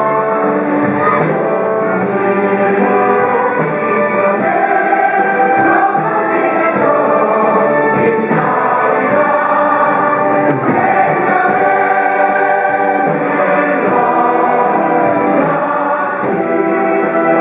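Stage musical cast singing together with instrumental accompaniment, a continuous loud sung number.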